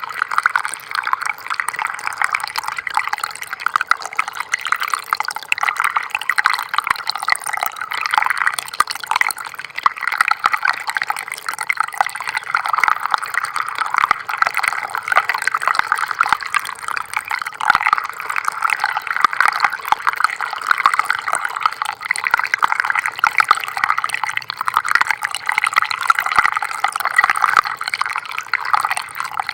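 Small stream of water trickling steadily, a continuous run of small splashes and drips without a break.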